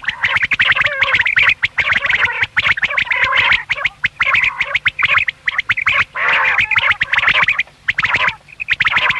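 Quail calling almost without a break in a rapid, raspy chatter, with a short pause near the end.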